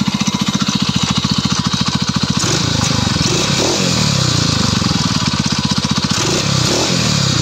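Engine treated with RVS additive, idling with an even rapid beat, then revved up and down from about two and a half seconds in and again near the end. No sharp knock stands out; the owner feels the knock is less sharp and that the anvil-like 'dyn-dyn-dyn' sound is gone, with only some scraping left.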